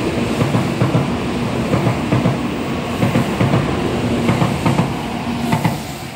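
N700-series Shinkansen train pulling out of the station and running past close by: a steady rumble of wheels on rail with repeated clatter as the bogies go by. It dies away near the end as the tail car passes.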